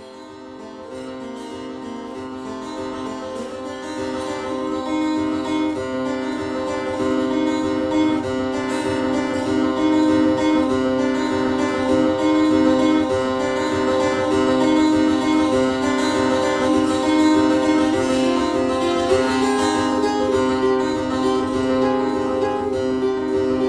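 Live guitar instrumental fading in over the first few seconds, dense picked notes ringing over steady drone tones.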